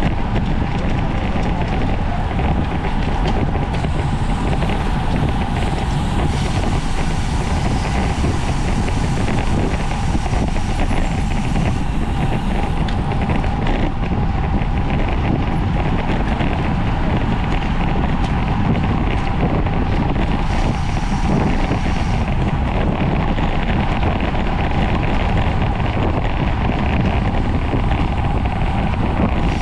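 Steady wind rushing over the microphone of a road bike riding at race speed, with a faint steady hum underneath.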